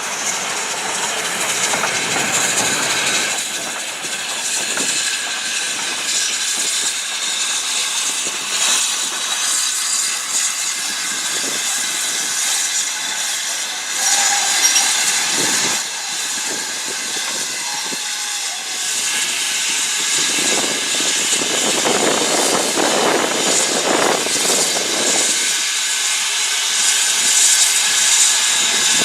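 Steam locomotive hissing steam steadily, with the sounds of the railway and its train around it.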